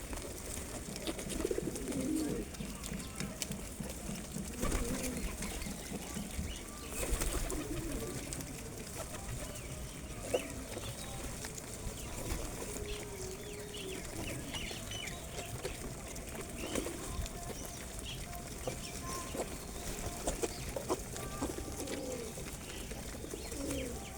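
Pigeons cooing again and again, low soft calls overlapping one another, with scattered small ticks and rustles among them.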